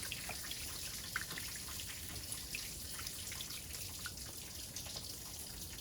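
Water dripping and trickling faintly in a hot tub, with scattered small drips over a steady low hiss.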